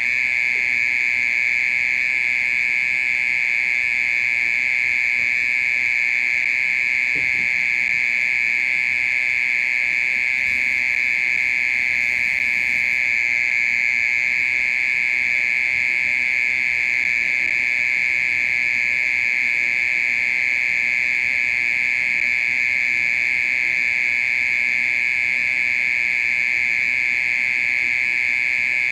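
Oriental mole cricket calling: a loud, steady, high-pitched buzzing trill that goes on without a break.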